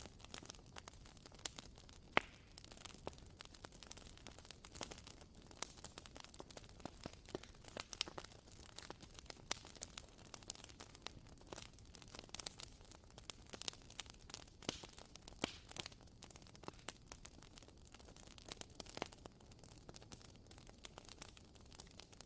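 WoodWick candle's wooden wick crackling, with irregular faint pops and clicks over a low hiss, a few pops louder than the rest.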